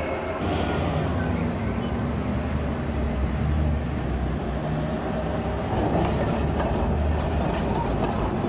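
Tram running on street track: a steady low rumble from wheels and motors, with light clicking from the rails in the last few seconds.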